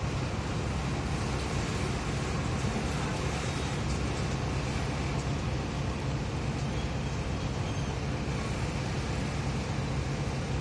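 The diesel engine of a JCB backhoe loader running steadily at a low, even hum while it digs.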